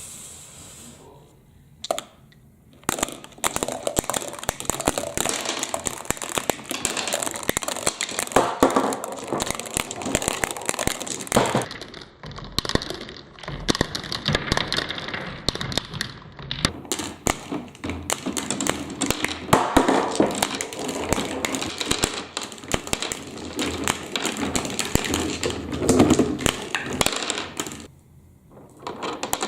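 Many small plastic balls rattling and clattering down a plastic marble run track: a dense, continuous stream of clicks and taps that drops off briefly near the end.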